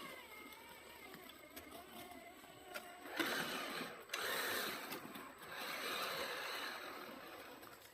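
Radio-controlled scale truck's electric motor and gearing whining, the pitch wavering with the throttle. About three seconds in, a louder rough rushing noise of the truck driving over the ground sets in, breaking off briefly a second later.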